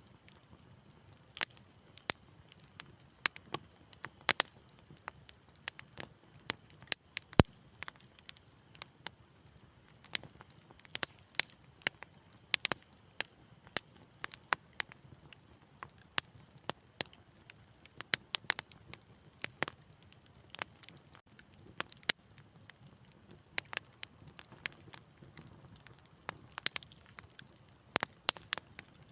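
Wood fire crackling: irregular sharp pops and snaps, a few louder ones, over a faint low hiss.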